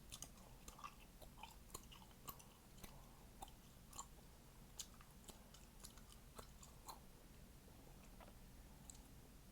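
Faint chewing gum being chewed: soft, wet mouth clicks a little over one a second, fading out after about seven seconds.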